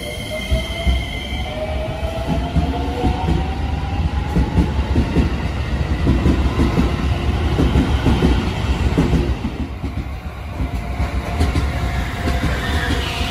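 Shin-Keisei electric commuter train pulling away: its motor whine rises in pitch over the first couple of seconds, then a loud rumble and clatter of wheels on the rails as the cars roll past.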